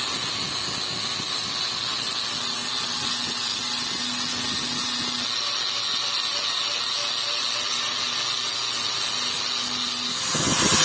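Electric grinder running steadily against the steel of a cleaver blade, a constant loud whirring grind that grows louder near the end.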